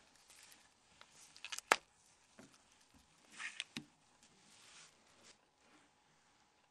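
Faint handling noises of small plastic mobile-phone parts being fitted together, with one sharp click a little under two seconds in and a few softer clicks around the middle.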